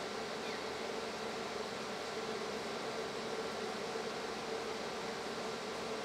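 A steady hum over an even hiss, holding the same level throughout.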